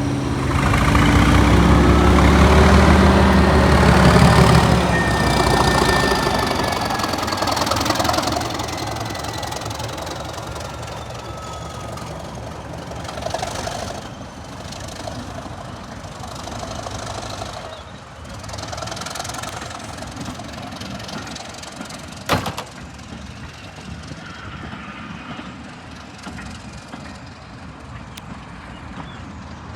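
Class 37 diesel-electric locomotive's English Electric V12 engine working hard as the train pulls away, loud at first with a high whistle sliding down in pitch, then fading as it draws off. A single sharp knock sounds about two-thirds of the way through.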